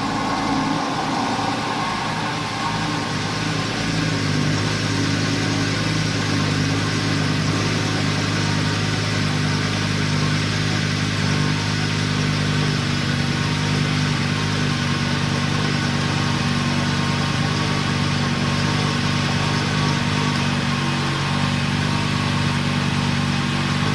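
Lamborghini Gallardo V10 engine idling steadily soon after a cold start, its first run after a crankshaft seal replacement. The idle sounds even, with a slight settle in pitch about nine seconds in.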